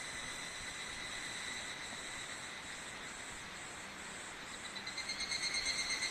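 Higurashi (evening cicadas) calling: a steady, high ringing whine that swells about five seconds in into a pulsing call of about five beats a second.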